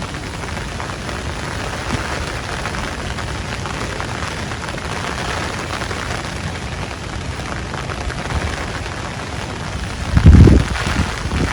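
Heavy rain falling steadily. About ten seconds in, a loud, low rumble rises briefly above the rain.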